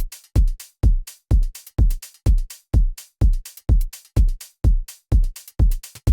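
Programmed house drum loop at 126 BPM: a soft kick on every beat, each thump dropping in pitch, with open and closed hi-hats and percussion hits between the kicks.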